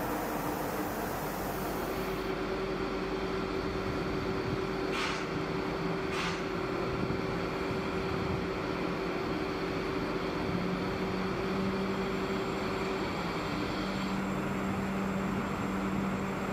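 Train at a station platform running with a steady hum, with two short hisses about a second apart near the middle.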